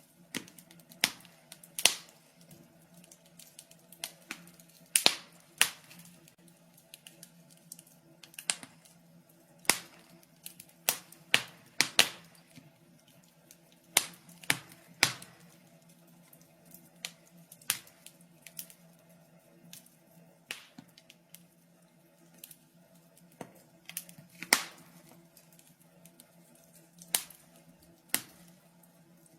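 Wood fire in a fireplace crackling, with irregular sharp pops and snaps, a few of them much louder than the rest, over a faint steady low hum.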